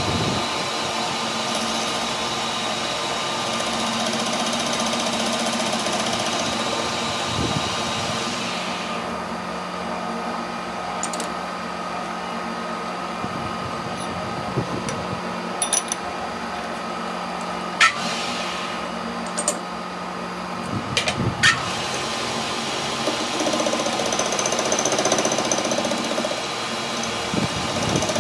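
A workshop machine running steadily with a constant hum, with a few sharp metallic clicks in the second half. A high hiss drops away about a third of the way in.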